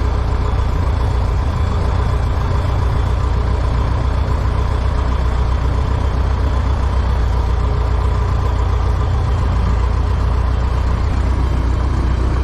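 Cessna 120's four-cylinder engine and propeller idling steadily at about 900 rpm, warming up on a ground run after starting.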